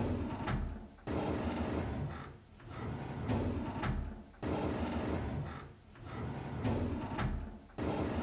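A wooden drawer being slid open, over and over: a rumbling slide with small clicks, one stroke after another about every two seconds, some starting abruptly.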